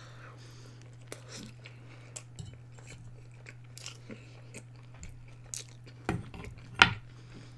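Close-miked chewing and biting of food, with wet mouth clicks and small crunches scattered throughout. Two louder mouth sounds come near the end, the second the loudest. A steady low hum runs underneath.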